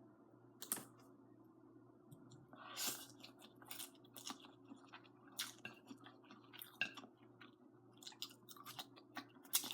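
Close-miked chewing of sticky, dry braised noodles with string beans: soft, irregular mouth clicks and small wet sounds.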